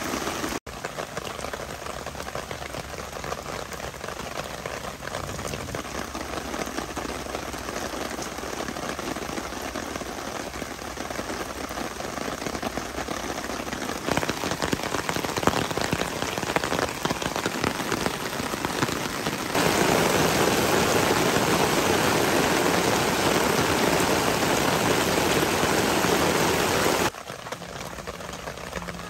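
Heavy rain falling steadily, an even hiss of drops. About two-thirds of the way in it grows louder for several seconds, then drops back suddenly.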